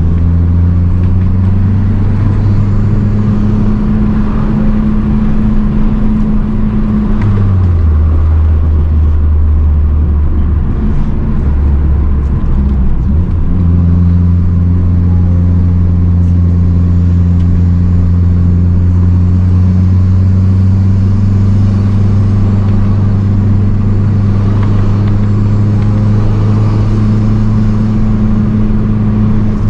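Mazdaspeed 3's turbocharged 2.3-litre four-cylinder, fitted with an aftermarket intake and cat-back exhaust, running under way. Revs hold steady, drop about seven seconds in, break briefly near the middle, then climb slowly and ease off again near the end.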